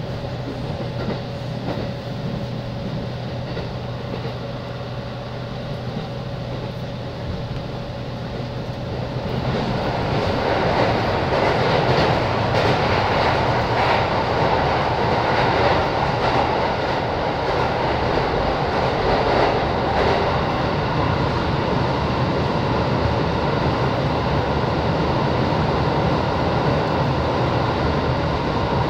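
JR East 205 series electric commuter train running along the track, heard from inside the car. The running noise and wheel-on-rail rumble grow louder about nine seconds in and then hold steady, with a few rail-joint clacks.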